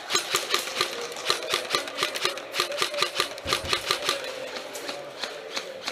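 Airsoft electric guns (AEGs) firing in rapid semi-automatic shots, a sharp crack about four times a second with a brief gearbox whir after each. A low thump comes about three and a half seconds in.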